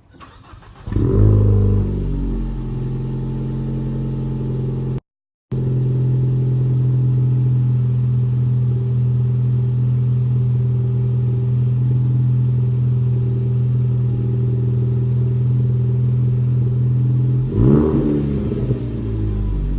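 2013 Ford Focus ST's turbocharged 2.0-litre four-cylinder engine through a resonator-delete exhaust with a Flowmaster Hushpower muffler. About a second in it starts with a loud flare and settles into a steady idle. A short rev blip comes near the end, rising and falling in pitch before it returns to idle.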